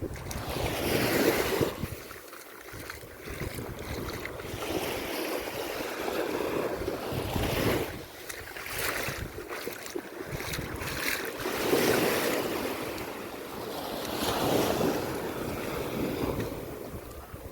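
Sea waves washing onto a sandy beach, swelling and receding every few seconds, with wind gusting over the microphone.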